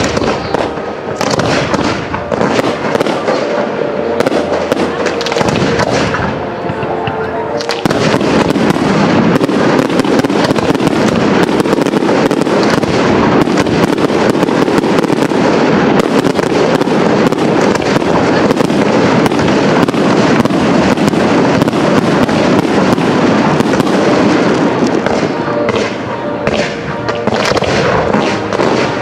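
Fireworks display: a dense, rapid run of bangs and crackling from bursting shells and effects, getting louder and thicker from about eight seconds in.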